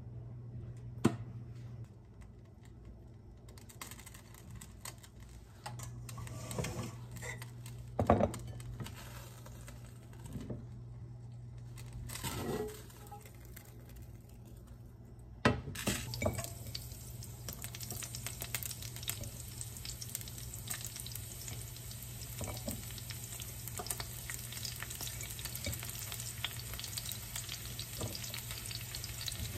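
Chopped scallion and garlic sizzling in hot oil in a nonstick frying pan: a dense, steady crackle that sets in about halfway through, right after a sharp knock of the pan. Before that, only a few knocks and clinks of the pan.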